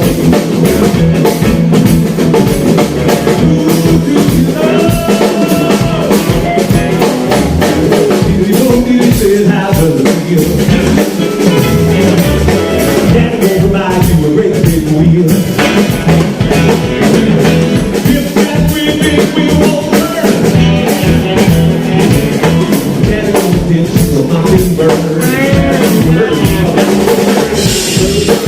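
A live band playing loud music on drum kit and guitar, with singing.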